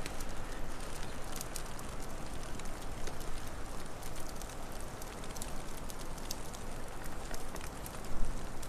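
Wood fire crackling, with irregular sharp pops over a steady hiss and low rumble, and one louder pop near the end.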